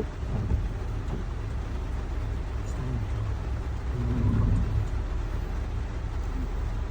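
Steady low rumble of road-vehicle noise with an even hiss, and faint voices now and then around the middle.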